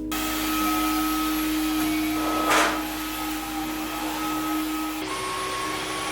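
Vacuum cleaner running steadily, with a brief louder rush about two and a half seconds in.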